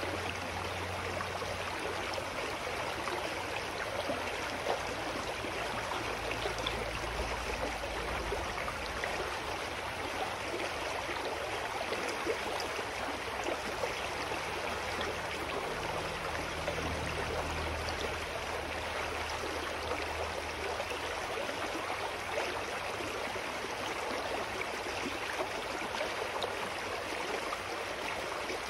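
A clear mountain stream flowing steadily over rocks, an even rushing and gurgling of water.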